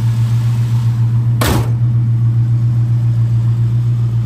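A 440 cubic-inch big-block V8 with dual exhaust idling steadily with an even pulse, and a single loud thump about a second and a half in, the hood being shut.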